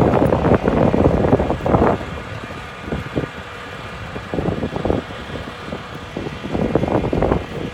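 Wind buffeting the microphone in gusts, loudest in the first two seconds. Beneath it, a 2006 International 4300 bucket truck's diesel engine runs with its PTO hydraulic pump engaged, giving a faint steady whine.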